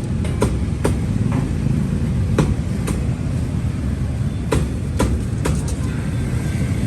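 Steady low rumble with sharp knocks scattered through it, about eight in all, some close together in pairs.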